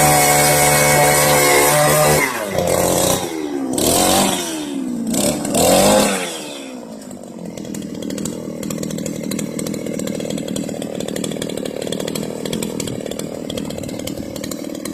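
Earth auger's small engine running fast and steady, then dropping about two seconds in. It revs up and back down twice, then settles to a steady idle.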